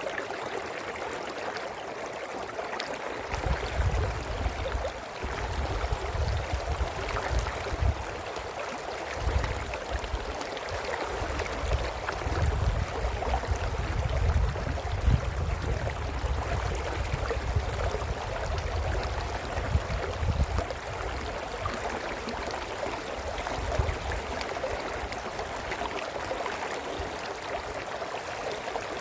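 A brook babbling steadily, an even rush of flowing water. An uneven low rumble joins it a few seconds in and dies away after about twenty seconds.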